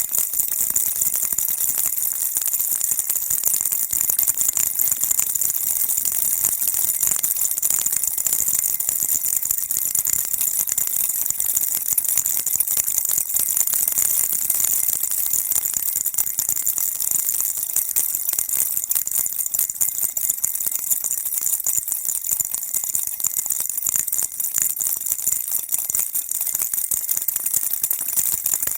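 A baby rattle shaken continuously, a dense, steady high-pitched rattling of small beads without a break.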